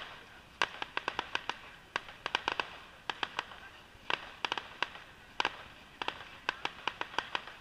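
Fireworks display bursting: a run of sharp cracks and pops, irregularly spaced and often bunched several to a second.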